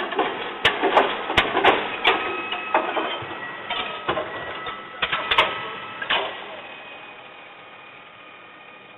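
Garbage truck at work: a quick, irregular run of metal clanks and knocks over a steady whine. The clanking stops about six seconds in and the whine fades away.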